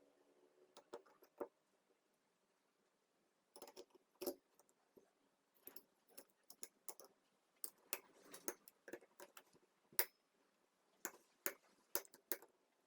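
Irregular sharp metallic clicks and clinks of small metal engine parts and hand tools being handled, about a dozen taps with gaps between them, the loudest near the end.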